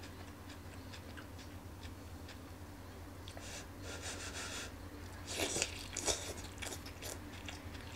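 A person eating stir-fried lettuce with chopsticks: a brief airy hiss as the mouthful reaches the lips, then loud, crunchy biting and chewing from about five seconds in.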